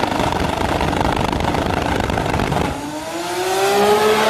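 Manual-transmission drag cars running at full throttle down the strip. Loud, dense engine noise gives way near the end to one engine note rising steadily as it pulls through a gear.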